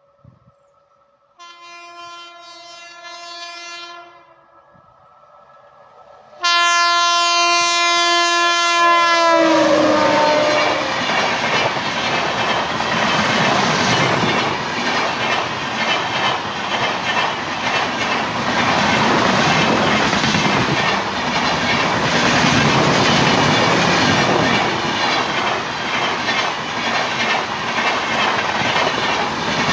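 WAP-7 electric locomotive sounding its horn twice: a blast of about two and a half seconds, then after a short gap a second blast whose pitch drops as the locomotive passes. The loud, steady rush and clatter of the express train's coaches going by on the track follows and continues.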